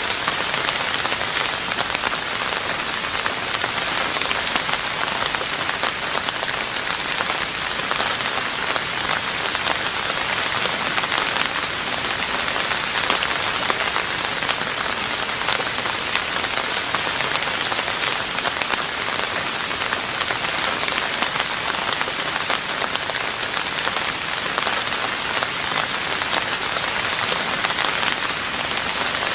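Steady rain falling on a roof, a dense even patter of drops with no let-up.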